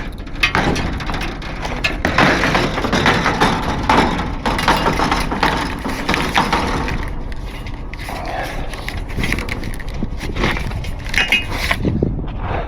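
Irregular clattering, scraping and knocking of tow hook-up gear being handled, loudest in the first half, over a steady low engine rumble.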